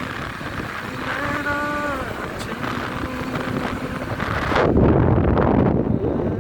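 Road noise of a moving vehicle, with a short pitched tone about a second in. About four and a half seconds in, heavy wind buffeting on the microphone takes over and grows louder.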